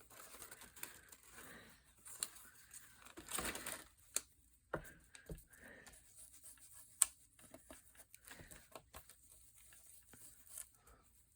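Paper being handled: intermittent rustling and crinkling with scattered light taps and clicks, the longest rustle about three and a half seconds in and a sharp click about seven seconds in.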